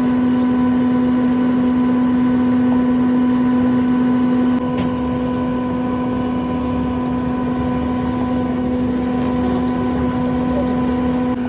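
A steady machine hum with a constant pitch, running unchanged throughout, its level dropping slightly and abruptly about halfway through.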